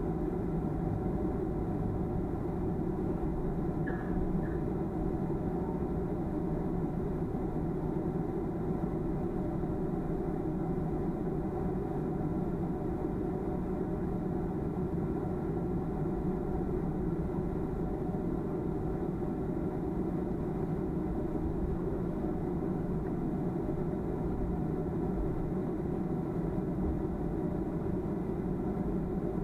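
Boeing 737-300 cabin noise with the CFM56-3 engines running: a steady low rumble with several steady engine tones above it, holding an even level throughout.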